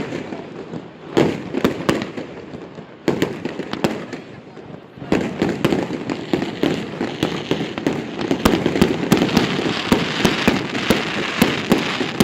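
Fireworks display: a string of sharp bangs and pops with crackling, which thickens about five seconds in into a dense, continuous crackle studded with pops.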